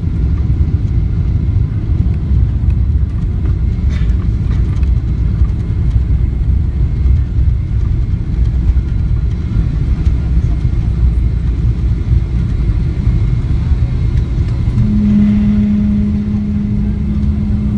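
Loud, steady low rumble inside the cabin of a Boeing 777-300ER around landing, with a steady low hum joining near the end.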